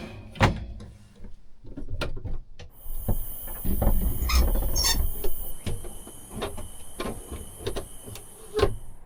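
Scattered clicks, knocks and small squeaks of caravan fittings being handled as an open window is shut, with a steady high hiss setting in about three seconds in.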